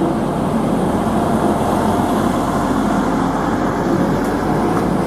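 Steady rumble of a train running on the rails, with a faint hum from its motors.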